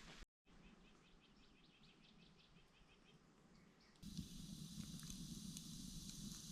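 Quiet wilderness ambience: a small songbird's faint trill of rapid repeated high notes, then, after a cut about four seconds in, a steady high insect hum over low background noise with a few soft clicks.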